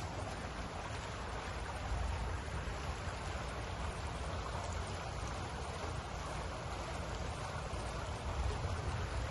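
Water fountain splashing steadily, a continuous even rush of falling water with a low rumble underneath.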